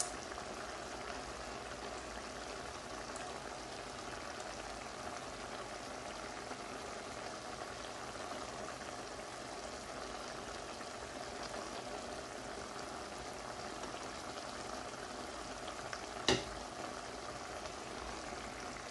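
Lamb and tomatoes sizzling steadily in a karahi on low heat, in the liquid the tomatoes have released. A single sharp click sounds about sixteen seconds in.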